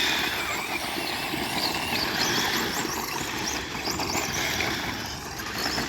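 Brushless-motor 2WD RC short course trucks driving. The motors' high whine rises and falls over and over with quick throttle bursts, above a steady rush of tyres on the ground.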